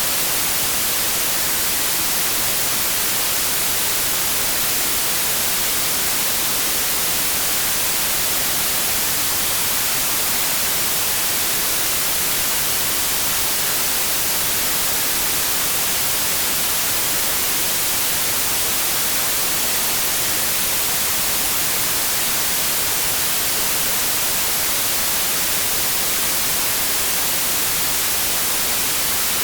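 Steady white noise: an even, unchanging hiss, brightest in the treble, with no changes or events.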